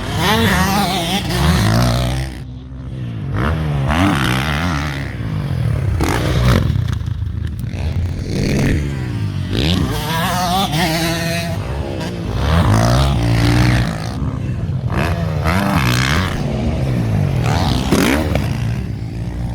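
Motocross motorcycle engines revving up and dropping off again and again as riders work the throttle around the track, several bikes overlapping.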